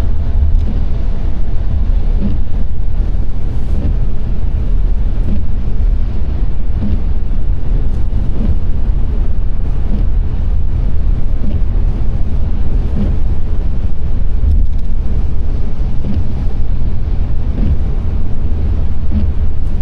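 A car driving along: a steady low rumble of road and wind noise that runs on without a break.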